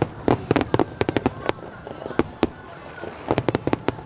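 Aerial fireworks going off in quick, irregular volleys of sharp bangs: a dense run at the start, a couple of single bangs a little past halfway, and another quick run near the end.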